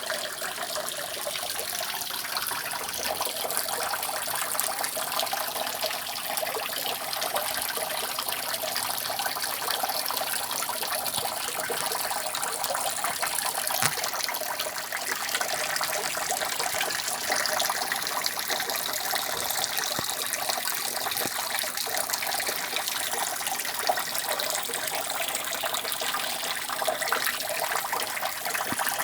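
Rainwater dripping and trickling continuously off a roof: a steady, dense run of many small drops with no pause.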